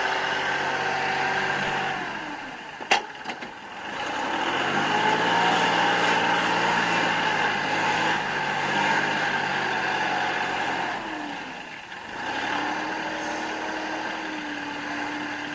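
Kubota L3560 tractor's diesel engine running, with a sharp click about three seconds in. The engine then revs up, runs at higher speed for about six seconds while the tractor works to lift a stuck engine block, and drops back to a steady idle near the end.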